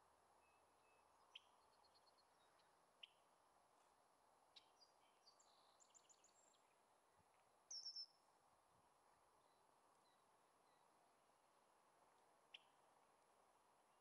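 Faint small-bird chirps over a low background hiss: a few single sharp chips, a quick twittering run of high notes, and one brief louder call just before eight seconds in.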